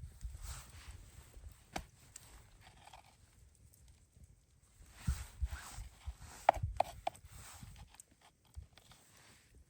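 Irregular crunches, knocks and rustles of someone moving and handling things, with a quick cluster of sharp clicks about six and a half seconds in.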